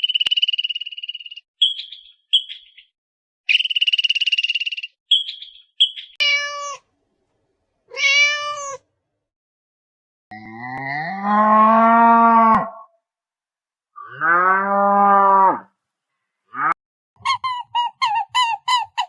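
A string of separate animal calls. A high, steady warbling call comes twice, then two short cat meows, then two long, lower-pitched calls, and near the end a quick run of short repeated notes, about five a second.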